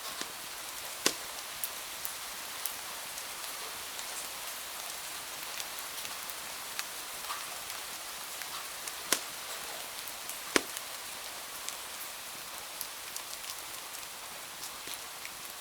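Steady rain with a wood fire crackling over it: scattered small ticks and three loud pops, about a second in, about nine seconds in and about ten and a half seconds in.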